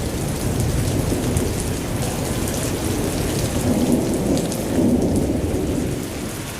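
Hailstorm: hailstones pelting down in a dense, steady rumbling clatter, with scattered sharp ticks of individual stones striking; it eases slightly near the end.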